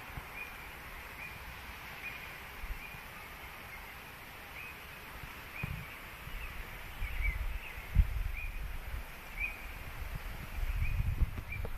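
A bird repeating a short, high chirp roughly once a second. From about halfway, low rumbling buffets of wind on the microphone come and go, growing stronger near the end.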